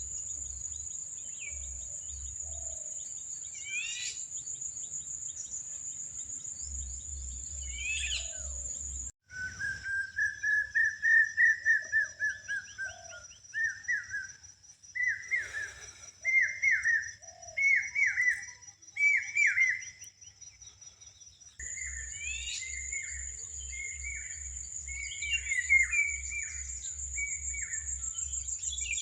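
Birds singing, a series of short whistled notes rising and falling in pitch, over a steady high-pitched insect drone. The whole soundscape changes abruptly about nine seconds in and again about twenty-two seconds in, and the bird whistles are loudest and most regular in the middle stretch.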